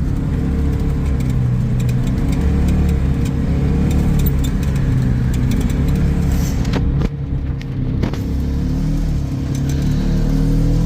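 Side-by-side utility vehicle's engine running steadily as it drives with its snow plow, a continuous low hum. It briefly dips about seven seconds in, with a few clicks.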